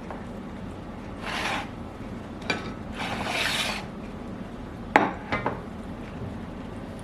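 Eating at a plate: two short scraping, rustling bursts, then a sharp clink about five seconds in and two lighter clinks just after.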